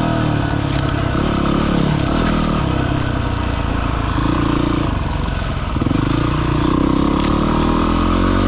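Dirt bike engine running under way, its revs rising and falling as the bike is ridden along a trail, with a brief dip in revs about five and a half seconds in.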